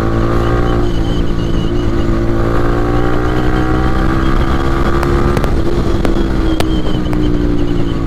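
Yamaha R15 V3's single-cylinder engine through an Akrapovic exhaust with the dB killer removed, running at steady riding revs, its pitch dipping briefly about a second in. A few sharp clicks come partway through.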